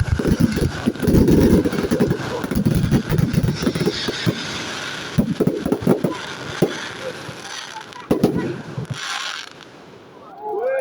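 Fireworks finale: a dense run of aerial shell bangs and crackling that thins out and dies away about nine seconds in.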